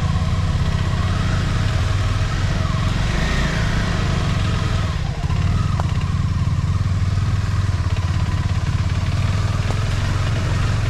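Motorcycle engine running steadily, heard close up, with a brief dip about five seconds in.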